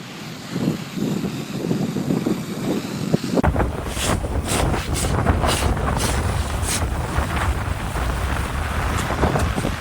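Blizzard wind gusting and buffeting the microphone. A deep rumble sets in suddenly about three seconds in, with brief hissing gusts over the next few seconds.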